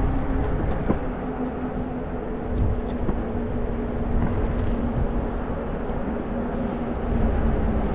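Wind rushing and buffeting over a GoPro's microphone during an e-bike ride, with a faint steady hum underneath.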